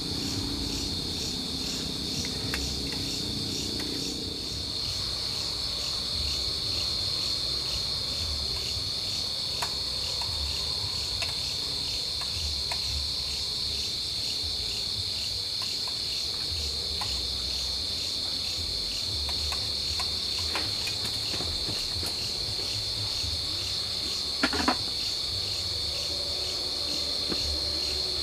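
Steady chorus of forest insects at night, a continuous high pulsing trill. Small scattered clicks sound over it, with a brief louder knock a few seconds before the end.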